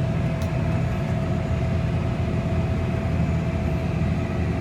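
Tractor engine running steadily, heard from inside the cab: a constant low drone with a thin steady whine above it.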